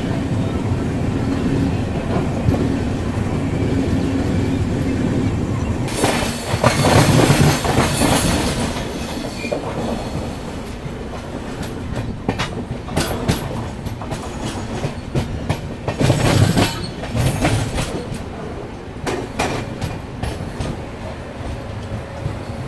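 Express passenger train coaches running along the track: a steady wheel rumble, then a louder rushing stretch about six seconds in, followed by irregular clicks and clacks of the wheels over rail joints as the train runs in along a station platform.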